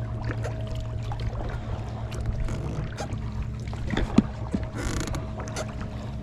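Boat motor running with a steady hum, over scattered clicks, knocks and creaks, with one sharp knock about four seconds in.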